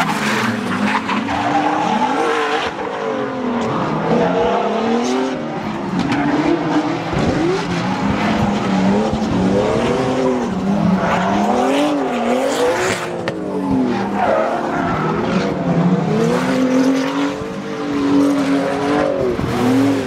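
Drift car engine revving up and down in quick, repeated swings as the car slides, with tyre squeal underneath.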